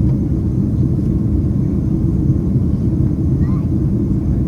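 Steady low rumble of a Boeing 767-300ER's jet engines and airflow, heard inside the passenger cabin from a seat behind the wing during the climb after takeoff.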